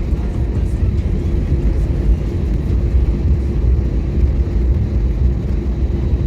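Airliner cabin noise in flight: a loud, steady low rumble of the jet engines and rushing air, with a faint steady hum over it.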